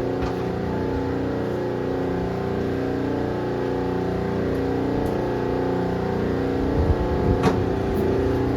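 Steady droning hum of a running machine, with a sharp knock about seven and a half seconds in.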